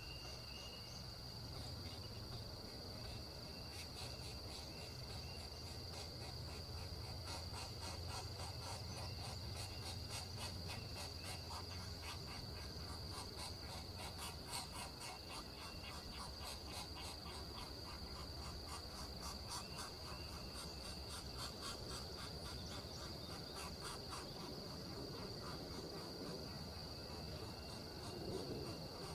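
Outdoor insect chorus: a steady high-pitched drone, with stretches of fast, dense ticking over it.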